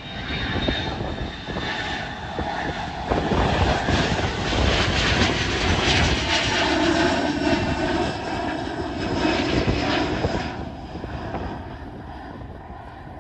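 Jet aircraft engines heard as the plane passes: the noise swells about three seconds in, stays loud, and fades near the end, with a faint high whine slowly falling in pitch.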